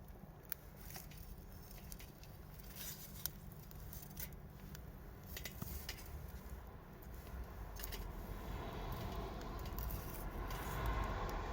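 Campfire crackling, with scattered sharp pops and clicks; a low rumble grows louder near the end.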